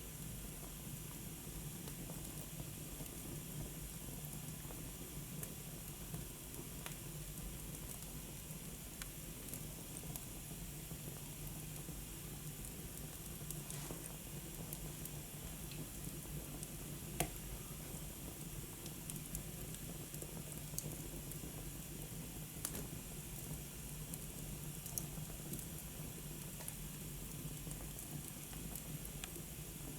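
Fire burning in a fireplace: a steady hiss with scattered crackles and pops, one louder pop about seventeen seconds in.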